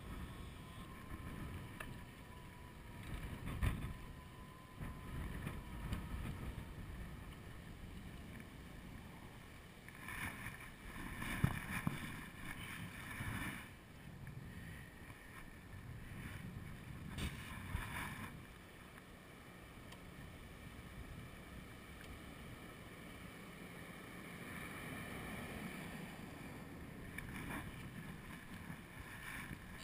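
Wind buffeting a chest-mounted camera's microphone while riding an e-bike: a steady low rumble with stronger gusts about three seconds in, again from about ten to thirteen seconds, and once more around seventeen seconds. A faint thin whine sounds for the first several seconds.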